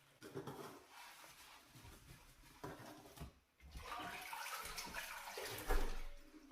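Water splashing and sloshing as things are washed by hand during kitchen cleaning, irregular and louder from about halfway through.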